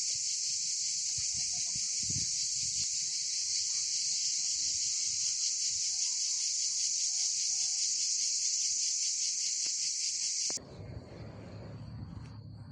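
A dense insect chorus: a steady, high-pitched shrill drone with a fast pulse. About ten and a half seconds in it cuts off abruptly, giving way to a quieter low rumble with a few faint clicks.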